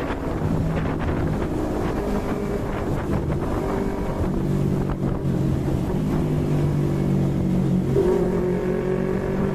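Yamaha MT-25's 250 cc parallel-twin engine running under way, its note dropping about four seconds in and climbing again near the end, with wind noise on the microphone.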